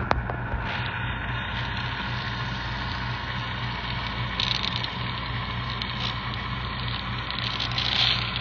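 A machine running with a steady low hum, with a few sharp clicks near the start and brief rattles about halfway through and again near the end.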